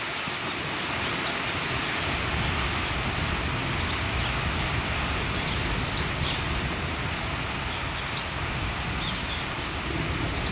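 Steady hiss of rain during a thunderstorm, with a low, uneven rumble building about a second in.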